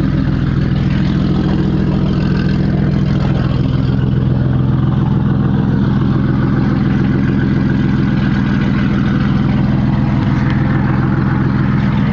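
Mercedes-Benz car engine idling steadily, freshly started cold.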